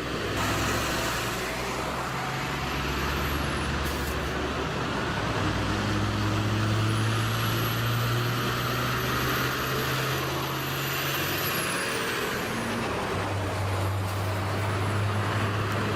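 Heavy truck engine running steadily with a deep hum. A high whine rises about five seconds in and fades away near thirteen seconds.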